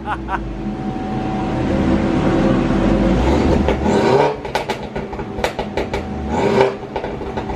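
Mini John Cooper Works GP's turbocharged four-cylinder engine, breathing through a high-flow sports cat, revving hard under load on a rolling-road dyno. The pitch climbs for about four seconds before the throttle is lifted, then the engine rises and drops again shorter near the end.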